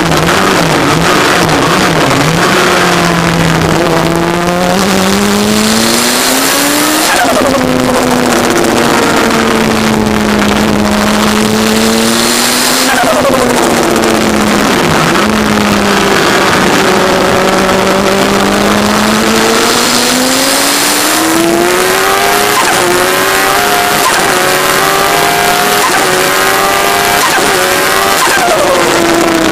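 Turbocharged Kawasaki ZX-10R inline-four in an MK Indy kit car, heard from on board while being driven hard. Its note climbs and falls slowly as the revs rise and drop through corners and straights, over heavy rushing noise.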